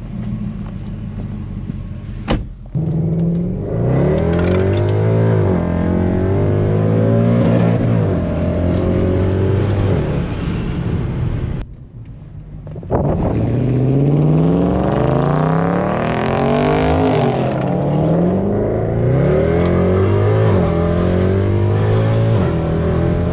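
V8 car exhaust under hard acceleration, the engine note climbing and falling with the revs. It swells about three seconds in, drops away briefly near the middle, then pulls hard again.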